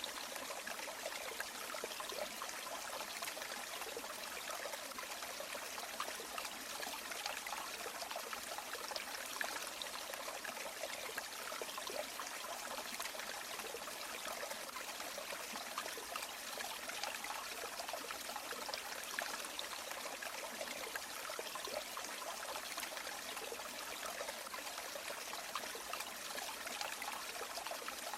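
River water flowing steadily: an even rush of water with fine splashing, mostly high and light with little deep rumble.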